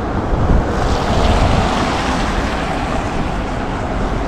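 Wind buffeting the microphone outdoors: a loud, steady rushing with irregular low rumbling, swelling about a second in.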